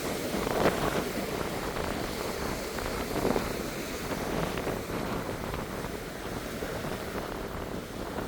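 Wind buffeting the microphone over the wash of surf, with a couple of louder gusts about half a second and three seconds in.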